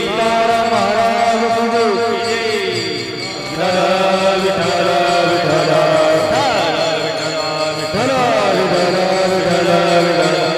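Warkari devotional bhajan singing: a voice draws out long, wavering notes over steady accompanying tones, with a short dip in loudness about three seconds in.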